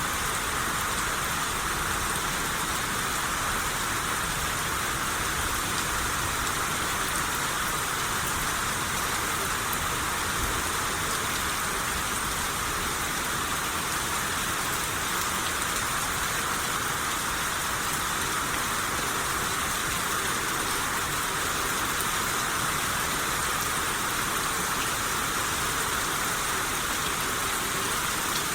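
Steady rain shower falling on surfaces: an even, unbroken hiss of rain.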